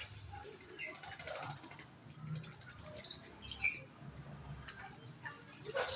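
Asian pied starling (jalak suren) giving a few short, scattered chirps, the loudest about three and a half seconds in and another near the end.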